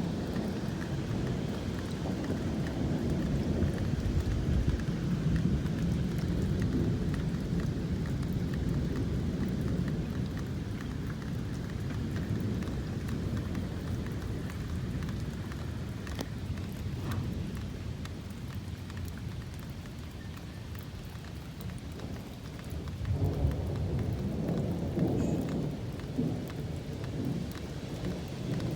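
Steady rain with thunder rumbling, the rumble swelling again about twenty-three seconds in.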